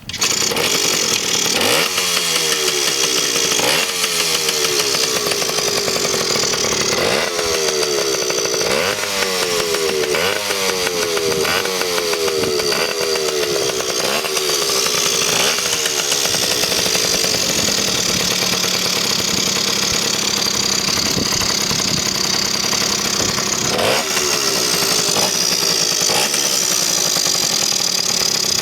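Yamaha QB50 Vogel's small two-stroke single-cylinder engine catching and running, revved again and again with each blip rising and falling in pitch through the first half. It then settles to a steadier idle, with one more rev near the end.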